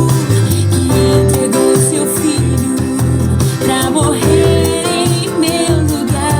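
Gospel song playing: a voice singing a wavering melody over band backing with a steady pulsing bass line.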